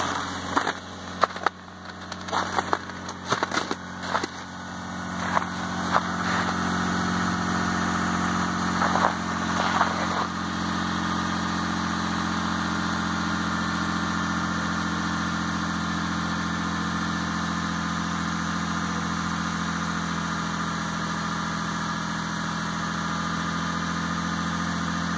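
2004 Toyota Highlander V6 idling steadily at the tailpipe just after a cold start. For roughly the first ten seconds, sharp crunches of footsteps in snow sound over it, and the engine grows louder as the tailpipe comes near.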